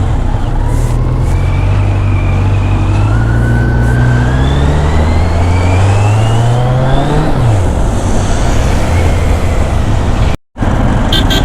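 Kawasaki Z900 inline-four engine pulling as the motorcycle accelerates: the engine note climbs steadily for about seven seconds, then drops sharply and runs on steady, under a constant rush of wind noise. The sound cuts out for an instant near the end.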